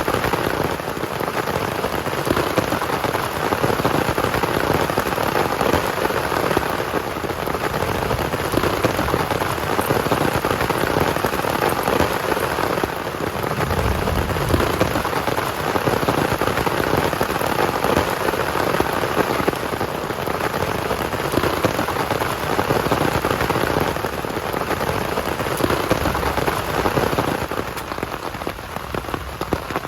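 Heavy rain falling steadily, a dense patter of drops, easing slightly near the end.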